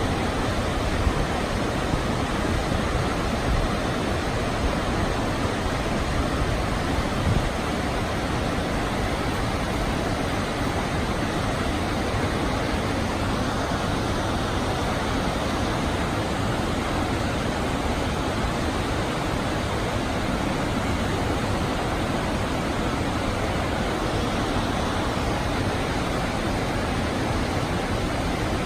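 Krka River water rushing steadily over its cascades: a continuous, even hiss of falling water.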